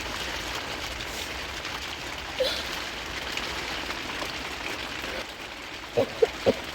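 Heavy rain falling steadily on a tent, a continuous even hiss. There is one short sharp tap about two and a half seconds in and three quick knocks near the end.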